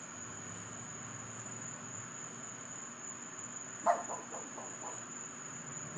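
Crickets chirring in a steady high drone, with a dog barking a short burst about four seconds in: a sharp first bark and a few fainter ones after it.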